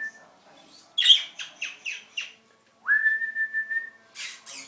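Pet budgies chirping: a quick run of about six falling chirps, then a long level whistle that swoops up and holds one pitch, and a short harsh scratchy burst near the end.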